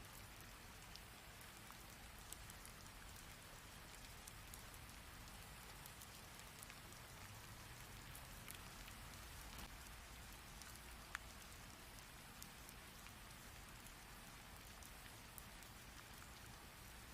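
Faint steady rain, with many individual drops striking close by as sharp ticks; one louder drop lands about eleven seconds in.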